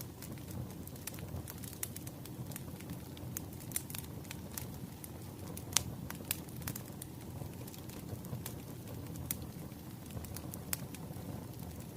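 Wood fire burning: a steady low rumble of flames with scattered sharp crackles and pops from the burning logs, one louder pop near the middle.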